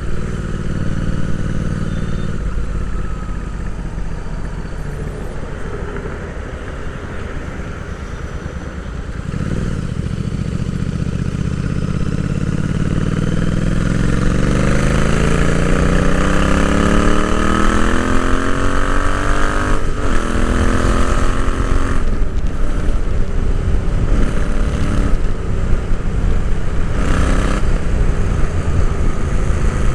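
Royal Enfield Interceptor 650's parallel-twin engine heard from onboard, easing off to low revs about two seconds in, then pulling hard with the revs climbing steadily for about ten seconds. The pitch breaks sharply at about twenty seconds, an upshift, and the engine runs on steadily and louder at speed.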